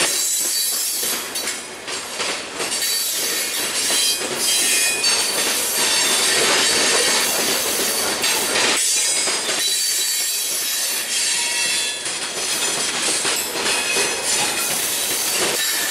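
Freight train of covered hopper cars rolling past at close range. The steel wheels squeal in high, wavering tones and clack over the rail joints.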